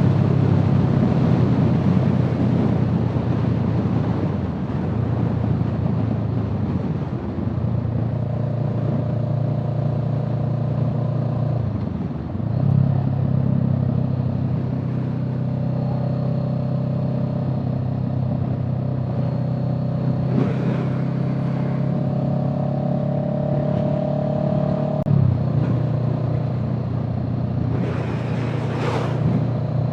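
A car engine running steadily under way, its note dipping and settling at a new steady pitch three times, as at gear changes. Two brief whooshes come near the end.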